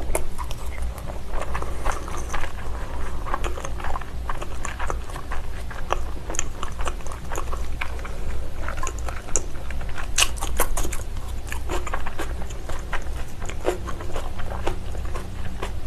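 Close-miked chewing of raw salmon sashimi: wet mouth sounds with many small clicks, over a low steady hum. Near the end comes a bite of leafy salad.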